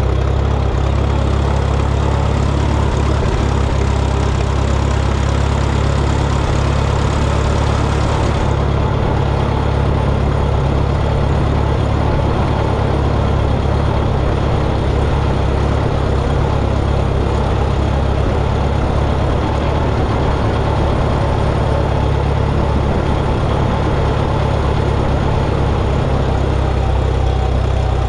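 Minneapolis Moline tractor engine running steadily at an even speed.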